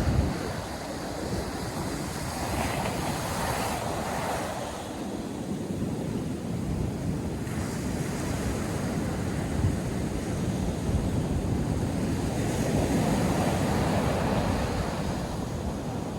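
North Sea surf breaking on a sandy beach, a continuous wash that swells and eases as waves come in, with wind buffeting the microphone.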